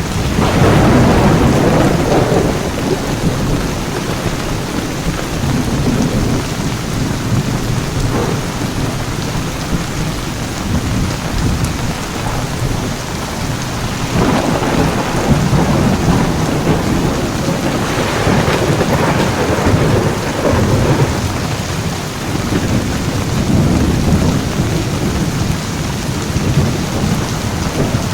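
Heavy rain pouring steadily in a thunderstorm, with rolls of thunder: one breaks suddenly at the start and others rumble about halfway through and again toward the end.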